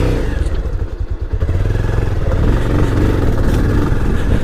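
Motorcycle engine running at low speed on a rough dirt road; its sound dips briefly about a second in, then runs on steadily.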